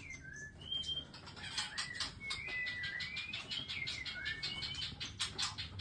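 Small caged songbirds bathing, with quick fluttering and splashing strokes of their wings in the water and short whistled chirps that glide up and down in pitch.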